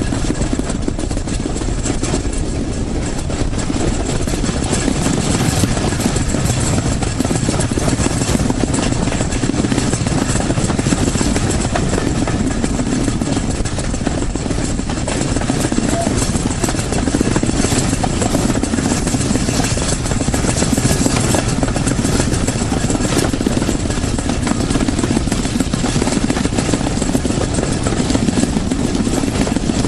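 A train running, a loud steady rumble that goes on unbroken.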